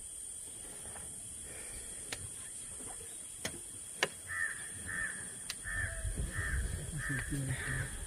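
A bird calling repeatedly: about seven short calls, roughly two a second, starting about halfway through, over a low rumble, with a few sharp clicks before the calls begin.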